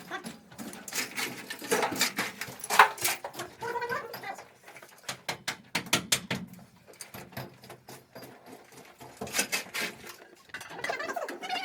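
Goats bleating, with many short clicks and knocks.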